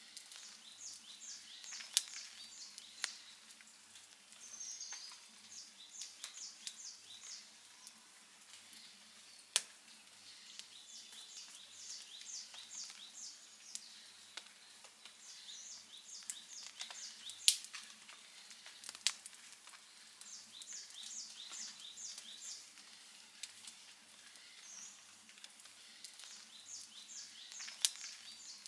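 Outdoor wood fire crackling, with a handful of sharp pops standing out over a soft continuous crackle. Groups of short high chirps repeat every few seconds behind it.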